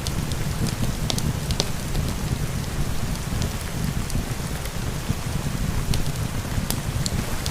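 Steady rain with a low rumble, mixed with a wood fire in a fireplace whose sharp crackles and pops come at irregular moments.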